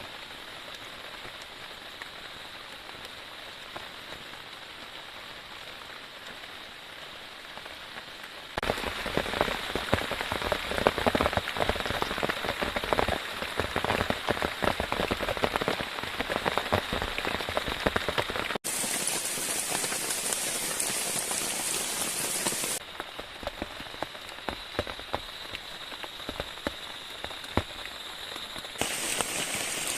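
Steady rain falling, with many drops striking a surface. It turns abruptly louder and heavier about a third of the way in, and the level jumps up and down suddenly a few more times after that.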